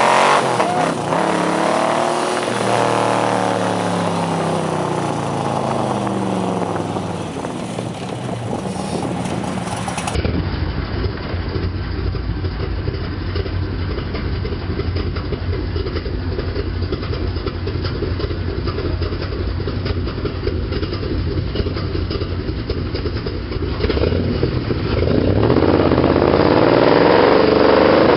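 1963 Corvette Stingray's 327 V8 revved hard in a burnout, the revs falling away over the first several seconds. It then runs steadily at low revs, and near the end it revs up loudly again as another burnout begins.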